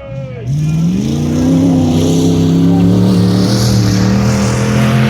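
Full-size pickup race truck engine accelerating hard. After a brief dip at the start, the pitch climbs over the first second or two, then holds steady at high revs under full throttle.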